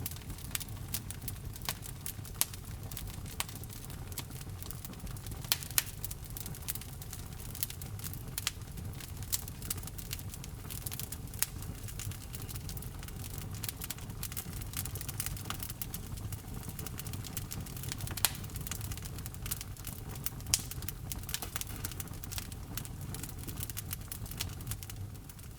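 Wood fire burning in a fireplace: a steady low rumble of flames with frequent irregular crackles and pops from the logs, a few of them sharper and louder.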